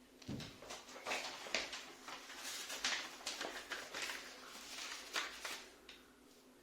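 Irregular crackling, rustling and clicking at a fireplace being lit, as paper and kindling are handled and set alight. It starts shortly after the beginning and dies away about a second before the end.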